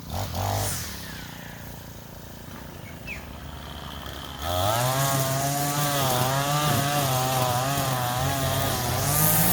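Small petrol lawn mower engine: a brief burst just after the start, then about four and a half seconds in it starts and runs loudly, its pitch wavering.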